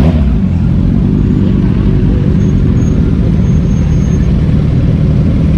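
Motorcycle engines running steadily together, a dense low engine sound with no clear revs.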